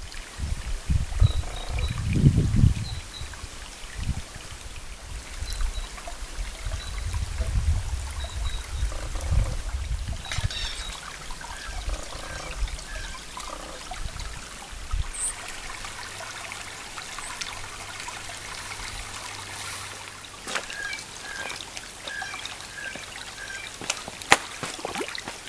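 Water trickling and running steadily, with a bird calling in short repeated notes now and then; low rumbles come and go through the first ten seconds or so.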